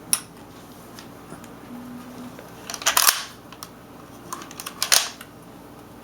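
Metallic clicks from a Claridge Hi-Tec 9mm pistol's action as it is worked and its trigger dry-fired: a single click at the start, then a loud cluster of sharp clicks about three seconds in and another about five seconds in.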